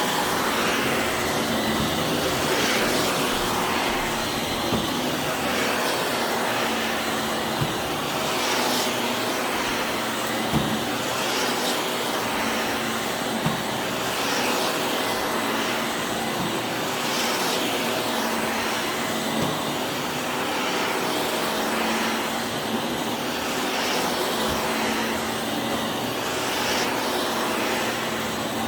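Vacuum cleaner running with a steady motor whine. The sound swells and fades every two to three seconds as the vacuum is pushed back and forth, with a few short clicks from things being picked up or the head bumping.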